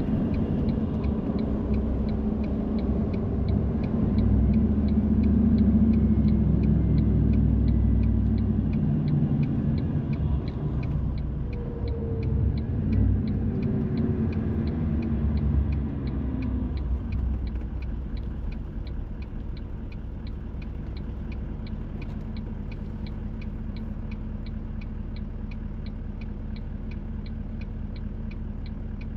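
Car interior during a drive: low engine and road rumble that drops to a quieter, steadier hum after about 17 seconds as the car slows. A fast, even ticking of about two to three ticks a second runs over it.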